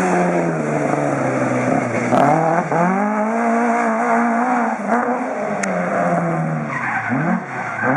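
Rally car engine run hard with gear changes and lifts: its pitch drops about two seconds in, climbs back and holds, falls off again, then rises sharply near the end.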